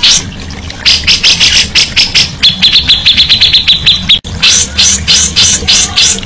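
Caged songbird singing loudly in rapid runs of sharp, repeated high chirps. In the middle comes a fast, buzzy trill on one pitch, which breaks off suddenly about four seconds in before the chirping resumes. A steady low hum runs underneath.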